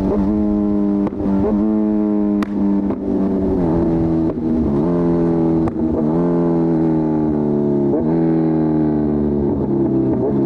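Kawasaki Z1000R inline-four through an Arrow full-system exhaust, pulling hard under acceleration, its pitch climbing and briefly dipping at each of several gearchanges. Over the last few seconds the pitch falls steadily as the throttle eases off.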